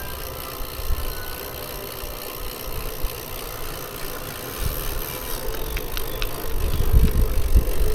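A bicycle ride heard from the rider's camera: wind rumbling on the microphone over road noise, the rumble growing stronger in the second half, with a few light clicks about six seconds in.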